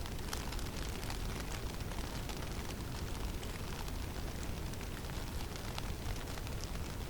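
Blizzard ambience in a forest: a steady low rush of wind with a constant hiss, dotted with many small scattered ticks.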